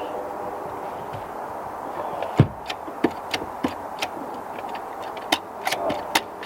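Ford Pinto engine running unevenly just after a cold start. A steady engine note is broken from about two seconds in by irregular sharp pops and ticks, and the car has a known slight exhaust leak.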